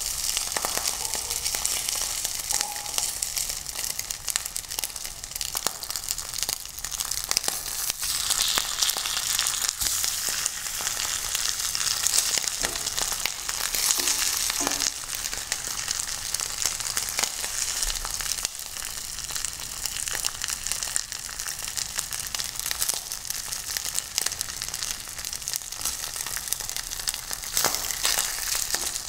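Millet patties sizzling and crackling as they fry in hot oil in a stainless-steel frying pan. Now and then a spatula scrapes and taps against the pan as the patties are turned.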